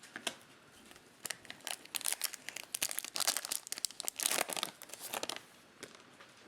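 Cellophane wrapper of a Topps Chrome cello pack being crinkled and torn open by hand, a dense run of crackling for about four seconds.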